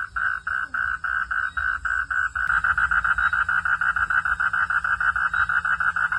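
Frogs calling at night in a chorus of rapid, evenly repeated pulsing calls. The calls are sparser at first and become denser and louder about two and a half seconds in, over a faint steady insect hum.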